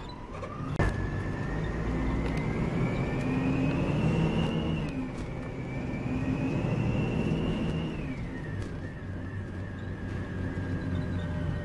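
Volvo B9R coach under way: the diesel engine runs with a high whine that climbs steadily in pitch as the coach gathers speed, dips briefly, then falls away about eight seconds in as it eases off. A single sharp knock sounds about a second in.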